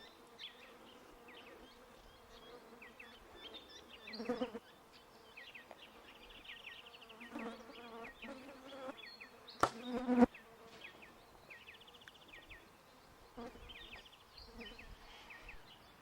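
Flying insects buzzing past close to the microphone, swelling and fading several times, loudest just before ten seconds in. Short, high chirps repeat in the background throughout.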